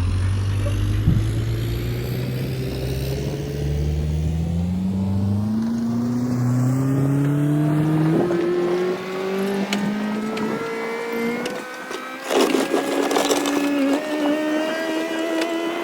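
Skid steer engine throttling up, its pitch climbing steadily for several seconds and then holding high. About twelve seconds in comes a burst of rattling and clanking.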